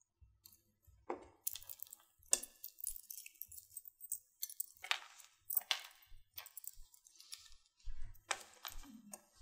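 Small metal clicks and clinks as a 6mm round jump ring is worked to attach a pewter pendant to a spacer. The irregular string of sharp clicks starts about a second in.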